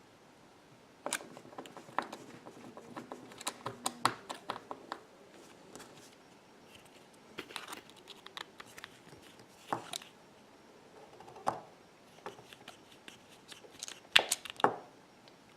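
Small clicks, taps and short scrapes of hand tools and small parts being handled while an iPhone 6 is taken apart, coming in irregular clusters, with the two loudest clicks close together near the end.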